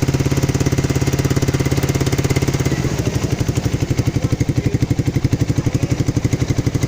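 Motorcycle exhaust with a stock Thai-market (CBU Thailand) muffler, the engine running at a steady idle with an even, rapid pulse; about three seconds in, the beat becomes more distinct. Its note is likened to a Suzuki Satria F's.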